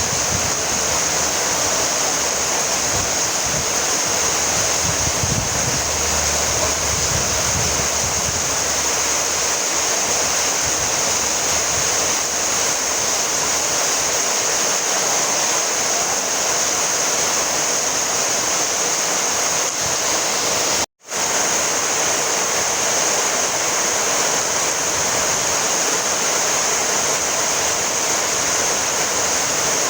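Steady heavy rainfall, an even rushing hiss with no single drops standing out. About two-thirds of the way through it cuts out for a split second and comes straight back.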